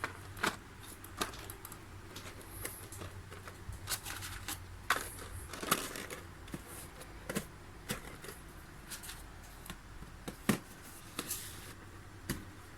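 Irregular small sharp clicks and taps of a plastic action figure and its parts being handled, over a steady low hum.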